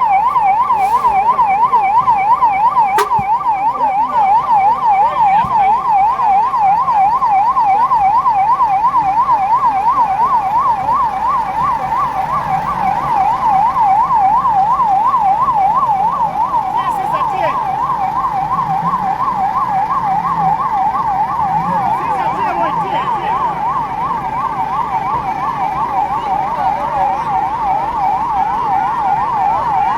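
Emergency-vehicle siren sounding in a fast yelp, its pitch rapidly swinging up and down several times a second.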